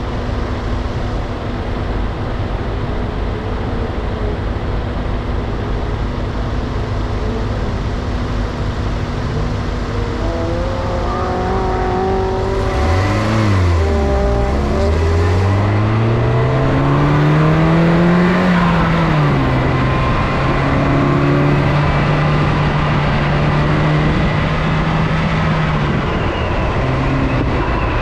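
R56 MINI Cooper S's turbocharged four-cylinder engine running with its turbo disabled by a fault that set the check engine light. It runs at a steady pitch for about twelve seconds, then the revs dip and climb as the car pulls away. The pitch drops once, about eighteen seconds in, as it shifts up, and stays steady after that.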